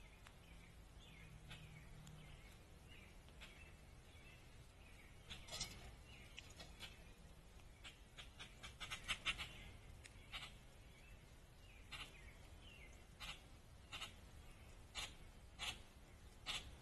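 Small backyard birds calling: faint high twittering at first, then short, sharp chip notes, irregular at first, with a quick flurry about nine seconds in and then roughly one a second.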